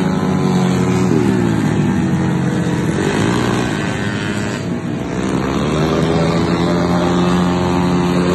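Yamaha Mio scooter's single-cylinder four-stroke engine running hard through an aftermarket racing exhaust. Its pitch rises and falls with the throttle, with a short dip a little past the middle as the throttle is eased.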